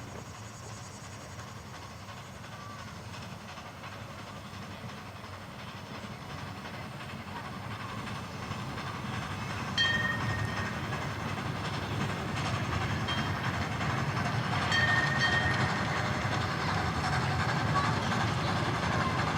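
16-inch gauge grand scale steam train running on the track and growing louder as it approaches, with wheels clattering. Its steam whistle gives short blasts about halfway through and again a few seconds later.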